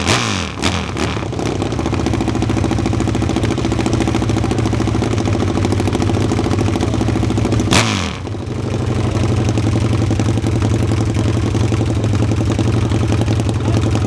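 Motorcycle engine running at a steady, held speed. About eight seconds in, the note briefly dips and comes back up.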